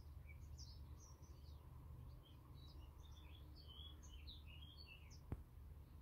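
Faint garden birdsong: many short, high chirps and twitters from small birds, with a single sharp click about five seconds in.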